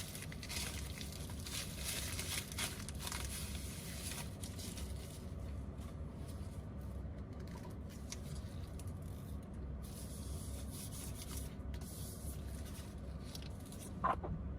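Scraping and rubbing noises of hand repair work on a phone, irregular and scratchy, busiest in the first few seconds, over a steady low hum. A short sharp sound comes near the end.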